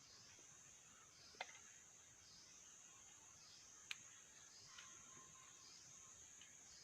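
Faint, steady high-pitched insect trill in the forest that pulses about once a second, with two sharp clicks about a second and a half and four seconds in.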